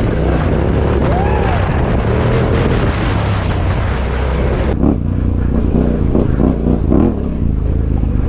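Adventure motorcycle engine running under load on a steep dirt climb, its revs rising and falling with the throttle. About halfway through, the rushing hiss over it drops away suddenly, leaving the engine note and a few more blips of throttle.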